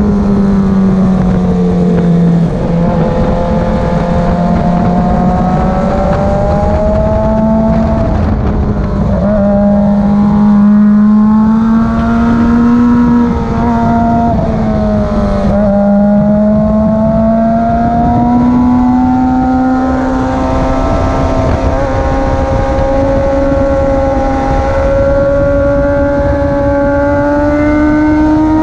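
Motorcycle engine running hard on a race track, its note held high and sweeping up and down with throttle and gear changes, with a few short dips where the revs drop. A steady rush of wind noise runs under it.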